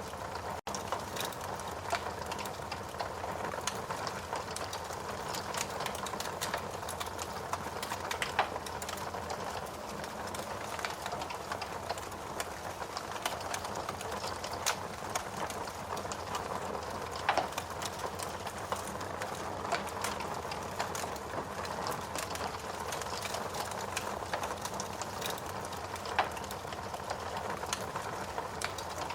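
Logs burning in a fireplace: a steady, dense crackle over a soft hiss, with a few louder pops spaced several seconds apart.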